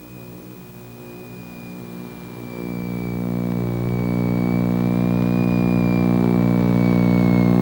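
Piston engines of a light twin-engine propeller airplane during the run-up prop governor check. The engine note holds a steady pitch while the power comes up and grows much louder over the second half.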